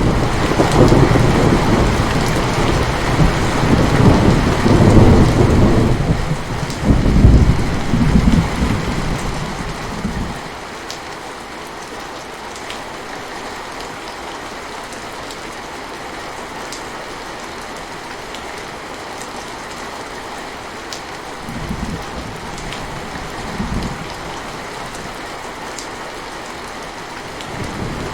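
Steady rain falling, with a long, heavy rumble of thunder over roughly the first ten seconds that dies away, then two brief, fainter rumbles near the end.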